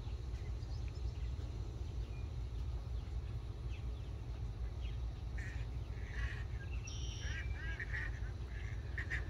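Steady low rumble, with short bird calls starting about five seconds in and coming in quick groups near the end.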